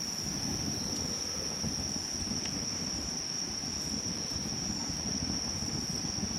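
A wood campfire burning with a low, uneven rush and an occasional faint crackle, under a steady, high, unbroken insect trill.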